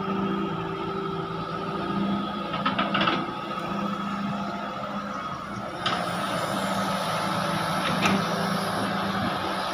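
Heavy excavator's engine running steadily under work, with a steady higher whine over the engine note. A few sharp clanks and knocks come about three, six and eight seconds in.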